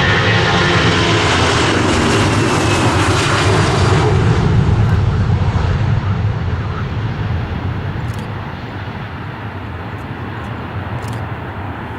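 Airliner passing close by: loud engine noise whose pitch drops as it goes past, fading away from about five seconds in.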